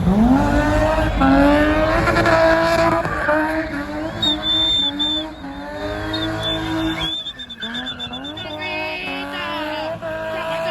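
Car engine revved hard and held high while the tyres spin and squeal, as in a car-meet spinning display. The revs climb at the start, the squeal rises over the engine for a few seconds in the middle, the engine drops briefly about seven seconds in, then it revs up again.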